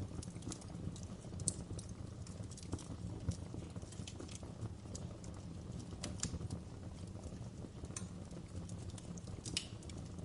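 Wood fire in a fireplace crackling: irregular sharp pops and snaps, a few louder ones about a second and a half in, around six seconds and near the end, over a low steady rumble.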